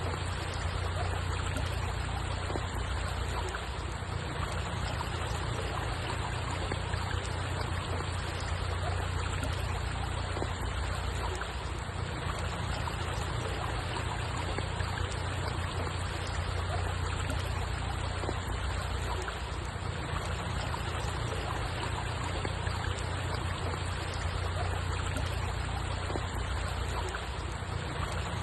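Steady running water, an even rushing hiss over a low rumble, with no change throughout.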